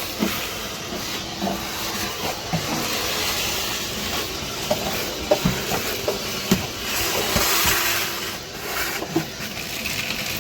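Old seam sealer being scraped off a car's steel floor pan: a steady hissing scrape broken by scattered knocks and clicks.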